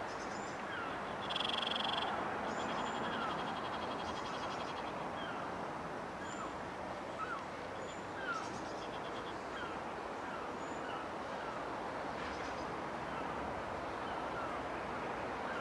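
Birds chirping and calling, short repeated notes with a couple of buzzy trills, over a steady outdoor hiss.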